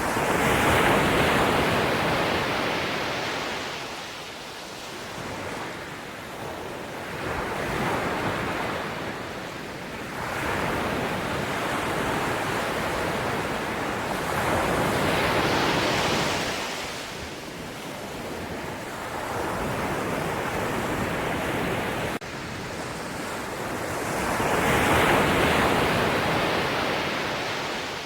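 Sea waves breaking and washing on a shore, the surf swelling and ebbing in slow surges several seconds apart, loudest about a second in and again near the end.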